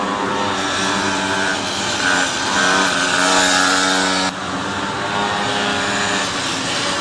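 Small pocket bike racing engines running at high revs, their pitch rising and falling with the throttle; the sound changes abruptly about four seconds in.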